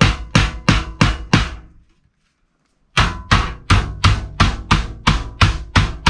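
A hammer driving nails into wood with quick, evenly spaced blows, about three a second, each with a short ringing tone; the blows break off about two seconds in and resume about a second later.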